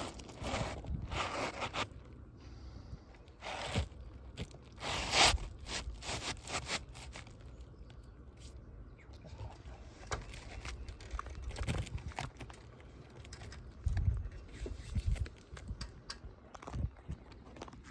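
Asphalt roof shingles being handled and worked: a series of short scrapes and crunches of the gritty shingles, with a few dull knocks.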